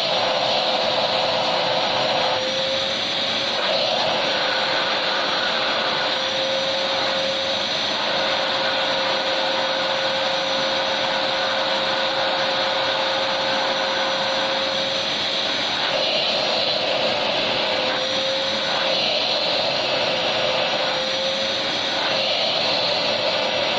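Electric vacuum cleaner running continuously, a steady motor whine over a rushing hiss of air, played as white noise for a baby's sleep.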